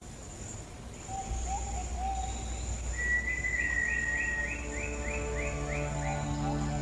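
Rainforest ambience: a steady high insect buzz with bird calls, a few low whistled notes and then a long run of about ten quickly repeated chirping notes, over a low drone. Sustained low musical notes fade in near the end.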